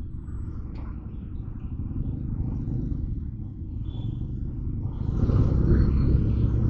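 Motorcycle running on the move through city traffic, a steady low rumble that gets louder about five seconds in.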